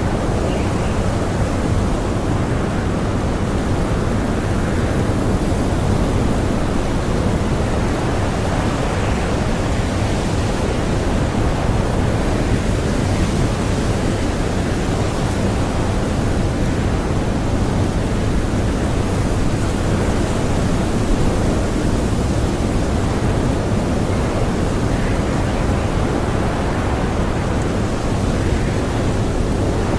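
Blizzard wind blowing as a steady, deep rushing noise that swells and eases gently.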